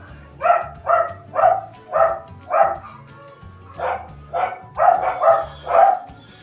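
A dog barking repeatedly, about two barks a second, with a short pause midway before the barking resumes.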